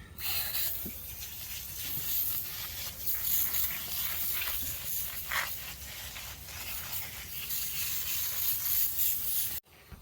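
Brush scrubbing the dusty coil fins of a camper's rooftop air conditioner: an uneven, scratchy rubbing that cuts off abruptly near the end.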